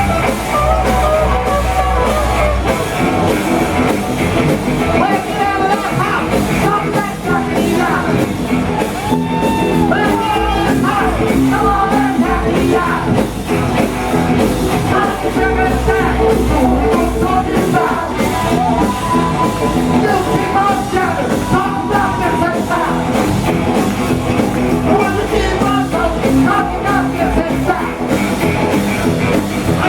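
Rock and roll band playing loud and steady, with a singer's voice and shouts over the band.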